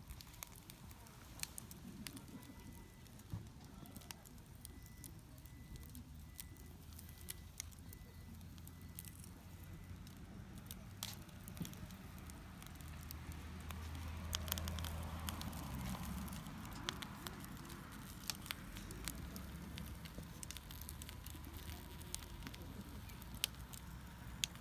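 Wood campfire crackling, with scattered sharp pops, under a pot of noodle soup as it starts to bubble and simmer.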